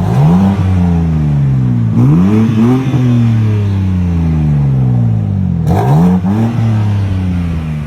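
BMW M4 Competition's twin-turbo straight-six revved three times while standing still, exhaust valves open in Sport Plus mode: each blip rises sharply and the revs fall slowly back to idle.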